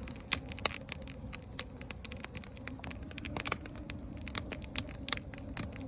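Wood fire of slabs and splits crackling in a fire pit, with frequent irregular sharp pops over a low steady rumble.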